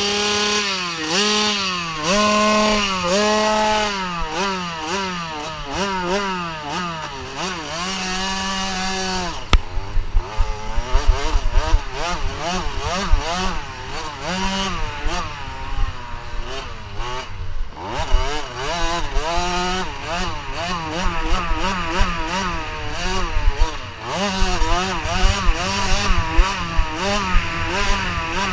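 Motocross bike engine at high revs, its pitch climbing and dropping again and again as the rider works the throttle and gears around the track. About a third of the way in, a low rumble and frequent crackling join it.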